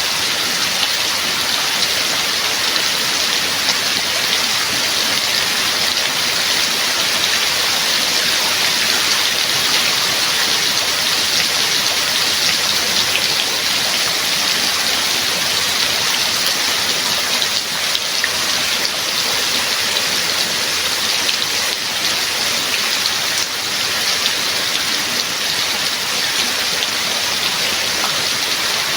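Steady heavy rain falling, an even, dense hiss of drops with no let-up.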